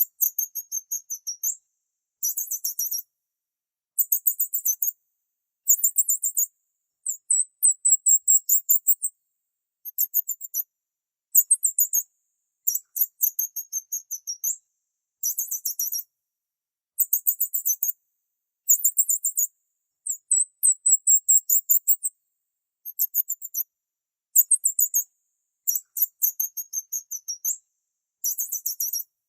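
Small bird chirping in short bursts of rapid, very high-pitched notes, about one burst every one to two seconds, with silence between bursts.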